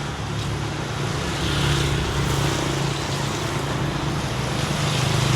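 Road traffic going by: a steady low engine hum with road noise from passing vehicles.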